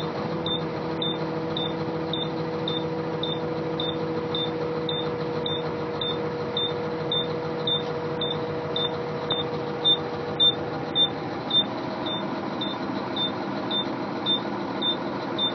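Caterpillar C13 inline-six diesel in a 2007 International 9200 Eagle running just after a cold start at −14 °C with no block heater or intake preheaters, not happy about it, with a few louder puffs about two-thirds of the way through. A short high beep repeats about twice a second throughout.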